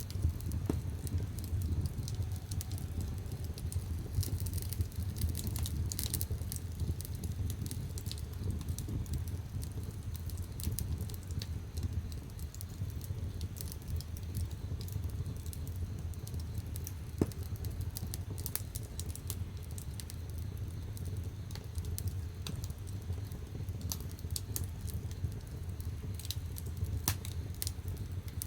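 Firewood burning in the firebox of a wood-fired bath: a steady low rumble under irregular sharp crackles and pops, with one louder pop about seventeen seconds in.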